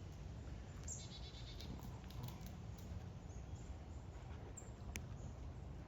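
Faint outdoor ambience with a steady low rumble, and a brief high-pitched animal call about a second in. There is a single sharp tick near the end.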